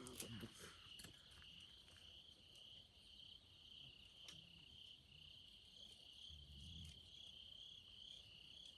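Crickets singing: a faint, steady, high-pitched trill that runs on without a break, with a couple of faint clicks near the start.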